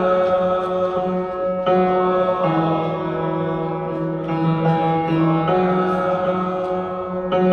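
Choir singing long held chords, the notes changing every second or two.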